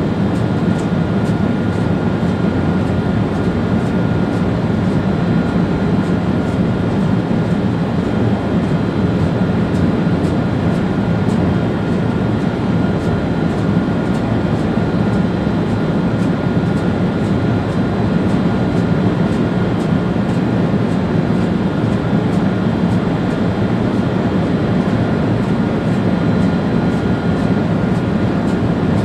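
Railjet high-speed train running at speed, heard from the driver's cab: a steady rumble of wheels on rail with a constant high tone and faint clicks over it.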